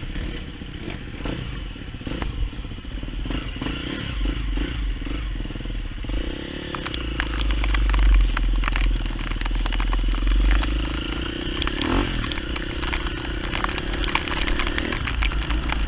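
Trail motorcycle engine running steadily at idle, starting about six seconds in and stopping near the end, over heavy wind rumble on the microphone and scattered raindrop clicks.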